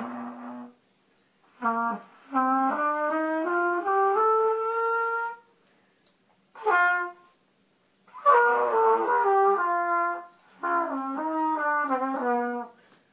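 Trumpet played in several short phrases with pauses between them, one a slow climb up a scale of held notes.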